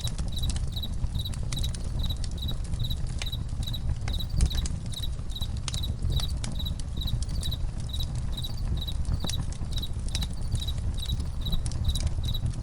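Crickets chirping in a steady even rhythm, about three chirps a second, over a crackling campfire with scattered sharp pops and a low rumble of flame.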